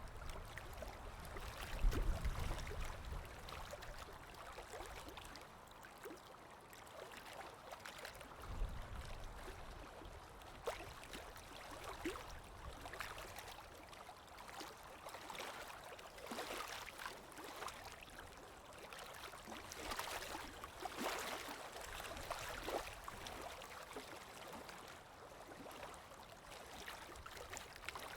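Water lapping with small splashes and clicks over a steady wind, from an ambient water-and-wind recording. Two low gusts of wind rumble through, about two seconds in and again around nine seconds.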